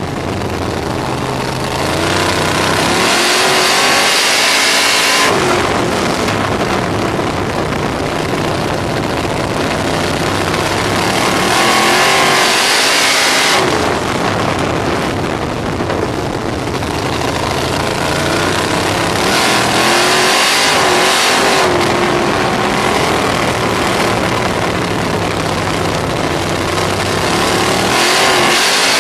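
Onboard a Racesaver 305 sprint car: its 305 cubic inch V8 rises in pitch as it accelerates and falls back as it backs off, in a cycle that repeats about every eight seconds, lap after lap. A loud rushing noise swells with each acceleration.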